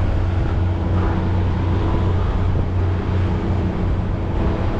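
Fishing boat's engine running steadily, a low even drone with a constant hum.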